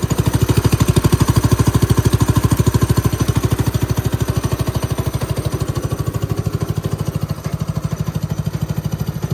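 Ariens AX 179cc single-cylinder four-stroke snowblower engine on a go kart, running at idle just after a first-pull cold start. It has an even, rapid firing beat, a little louder for the first few seconds and then steady.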